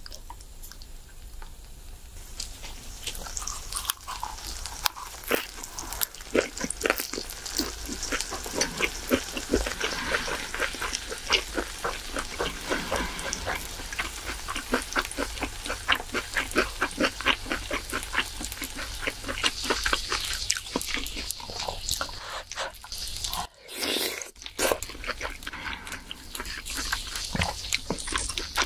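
Close-miked chewing of a lettuce wrap of grilled pork belly: a dense, fast run of wet, crunchy mouth clicks, with a brief pause about three-quarters of the way through.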